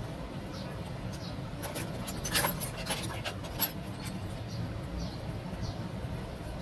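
Small clicks and scrapes over a steady low hum, in a cluster from about two to three and a half seconds in, with the two sharpest clicks about a second apart.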